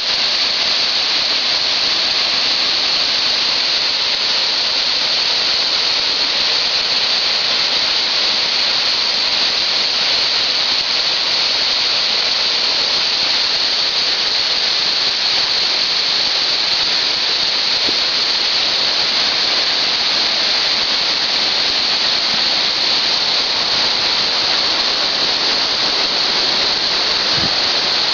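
Waterfall: falling water making a steady, loud rushing noise that does not change.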